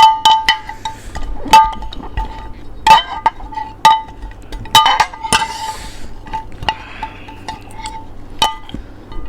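A spoon clinking again and again, at uneven intervals, against a dish that rings with a short tone after each strike, as snacks in milk are scooped and stirred.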